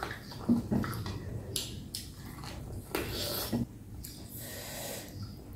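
Close-up eating sounds of deboned chicken feet pickled with lemongrass and kumquat being chewed: wet mouth smacks and clicks, a couple within the first second and a cluster around three seconds in.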